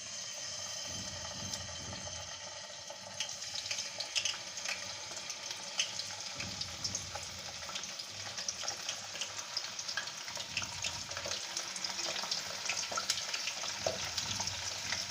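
Skewered chicken and potato pieces sizzling in hot soybean oil in a frying pan: a steady hiss full of small pops and crackles, which picks up about three seconds in.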